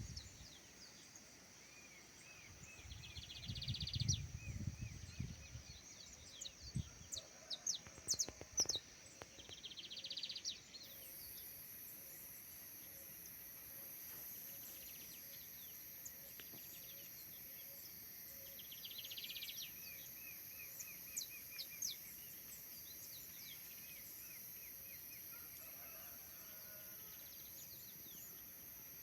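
Natural outdoor ambience: birds calling in short repeated chirps and trills over a steady high-pitched insect drone, with a second, higher insect hum joining about eleven seconds in. A few low rumbling thuds come in the first ten seconds.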